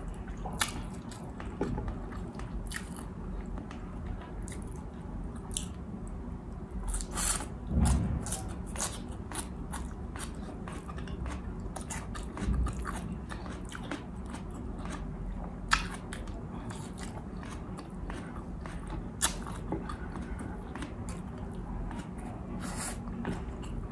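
A person eating bistek tagalog close to the microphone: wet chewing and mouth smacks with many scattered sharp clicks, over a steady low hum.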